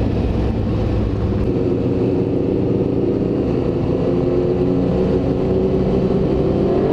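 Honda CBR1000RR's inline-four engine running at low, fairly steady revs in traffic. The pitch drifts a little and rises slightly near the end.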